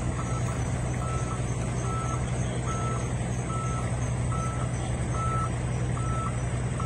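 Truck reversing alarm beeping about every 0.8 seconds over the steady drone of the truck's diesel engine as it manoeuvres.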